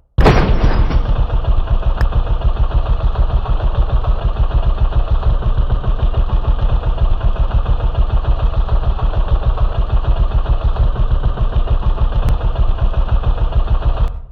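KTM Duke 390's single-cylinder engine idling steadily with an even pulse; it starts abruptly just after the beginning and dies away near the end.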